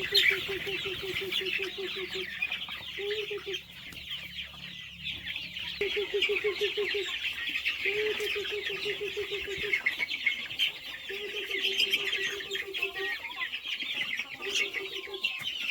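A flock of young chickens peeping continuously in many overlapping high chirps. Several runs of a lower, rapid clucking last a second or two each.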